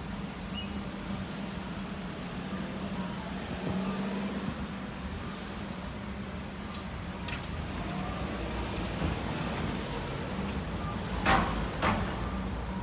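A vehicle running with a steady low hum over outdoor urban background noise. Near the end come two sharp clacks about half a second apart.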